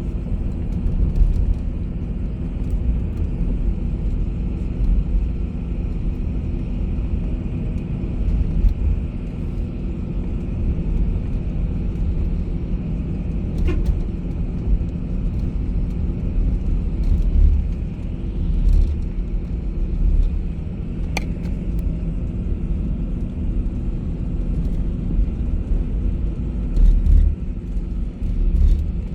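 Steady low rumble of a moving bus, its engine and road noise carrying throughout, with a couple of brief clicks partway through.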